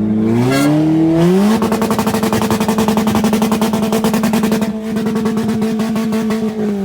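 Car engine revved hard: the note climbs, holds high with a rapid stutter for a few seconds, then stays steady before falling away near the end.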